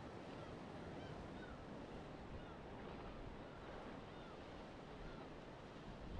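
Surf washing on a shore in a steady rush, with many short, high bird calls repeating over it.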